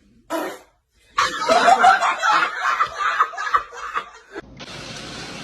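A person laughing hard in a burst of about three seconds, after a short vocal sound. Near the end it gives way abruptly to a steady hiss.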